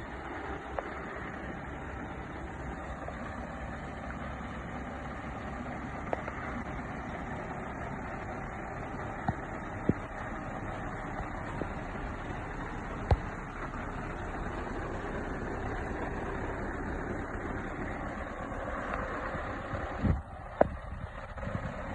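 Scania R730 truck's V8 diesel engine running steadily, with a few sharp clicks and knocks now and then.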